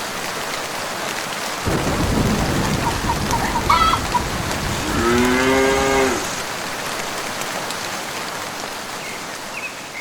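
Steady rain with a rumble of thunder starting about two seconds in, then a cow mooing once, a long call, around five seconds in.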